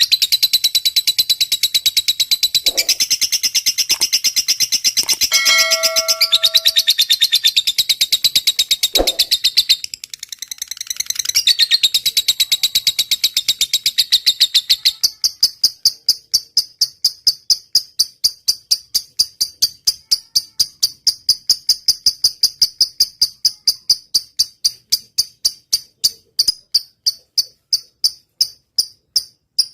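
Lovebird singing: a dense, high, rapid chattering song, which about halfway through turns into a long run of sharp repeated chirps at roughly three a second, the ticking 'ngetik' call.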